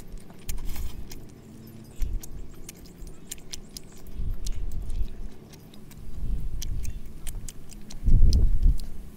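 Close-up eating sounds: chewing roasted chicken, with wet lip smacks and small sharp clicks scattered throughout and a louder stretch of chewing near the end.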